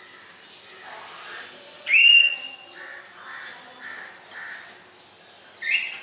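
A caged pet bird gives a loud, rising whistled call about two seconds in, holding its pitch for about half a second, and a shorter rising call near the end, with softer repeated chatter notes in between.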